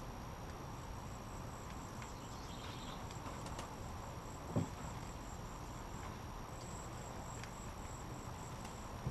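Insects chirping in a fast, even, high-pitched trill that pauses briefly once. A single low thump comes about halfway through.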